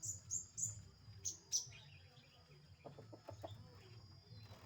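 A bird giving short, high chirps, five in quick succession in the first second and a half, followed by a few faint clicks.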